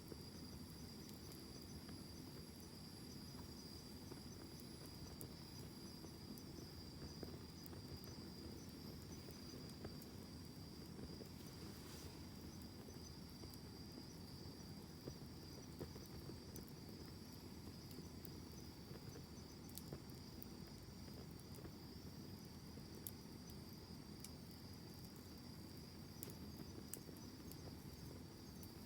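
Wood campfire burning quietly with a low steady rush and scattered faint crackles and pops. A steady high-pitched insect trill, like crickets, runs beneath it.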